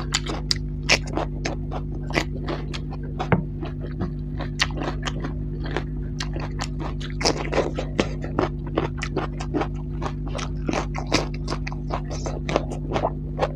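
Close-miked mouth eating raw cucumber slices: biting and chewing with many short, irregular wet clicks and smacks of lips and tongue. A steady low hum runs underneath.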